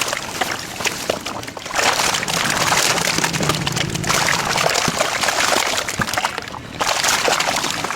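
Water sloshing and splashing in a container of live catfish as fish are picked out, in three long spells with short breaks about two seconds and six and a half seconds in.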